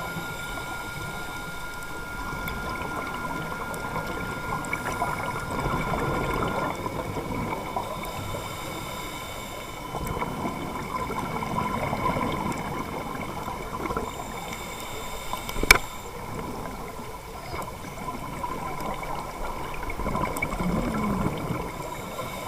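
Underwater recording on a diver's camera: gurgling exhaled bubbles from a scuba regulator that swell and fade every several seconds, over a few faint steady high tones, with one sharp click about two-thirds of the way through.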